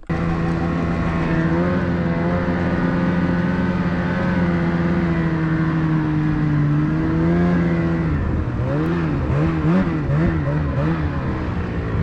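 Snowmobile engine running at a steady pitch, then revving up and down in quick repeated swells for the last few seconds.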